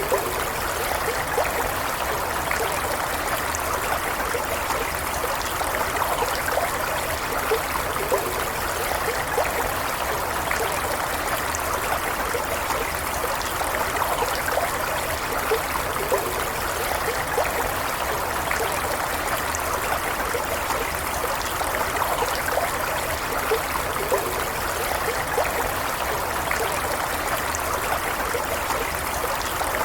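Stream water flowing and trickling steadily, with small gurgles and bubbling splashes.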